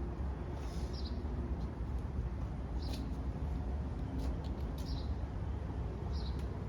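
Short high-pitched chirps or squeaks, about four of them spaced a second or two apart, over a steady low rumble.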